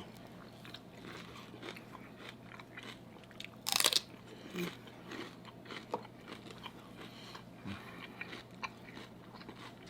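Celery stick being bitten and chewed, with crisp crunching throughout and one loud crunch just before four seconds in.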